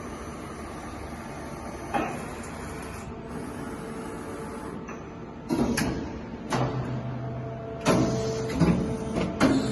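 Okuma MC-4-VA vertical machining center milling: a steady machine hum, then from about halfway through a run of sudden loud mechanical bursts with a tone that comes and goes.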